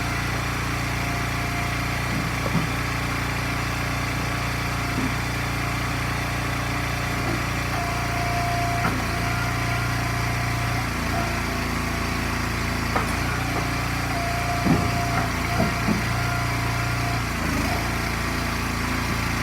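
Small gas engine of a hydraulic log splitter running steadily, its note shifting a little as the splitter takes and releases load. A few short knocks of wood are heard now and then.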